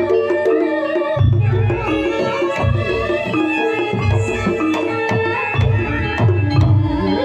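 Campursari ensemble playing a langgam: a Javanese kendang hand drum beats low strokes in short clusters under sustained melodic instrument lines.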